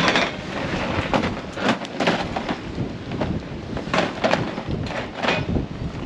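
Storm wind and rain buffeting the microphone in a rough, rumbling roar, broken by irregular sharp knocks and crashes, the loudest right at the start and around four and five seconds in.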